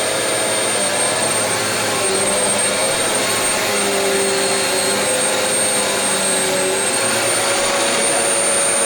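Aspiron 1200W bagless upright vacuum cleaner running steadily while vacuuming carpet: an even rush of air with a thin, high, steady whine on top.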